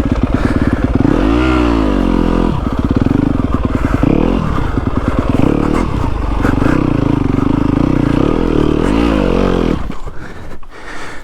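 Yamaha WR250F's single-cylinder four-stroke engine revving up and down repeatedly as the dirt bike is ridden along a trail. About ten seconds in, the engine note falls away sharply, leaving a few knocks and clatter.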